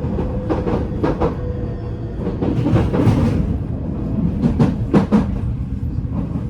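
Running sound inside an Odakyu 5000-series electric train motor car: a steady rumble of wheels and traction gear on the rails, with wheels clicking in pairs over rail joints. A faint steady whine from the Mitsubishi full-SiC VVVF inverter and motors fades out about two seconds in.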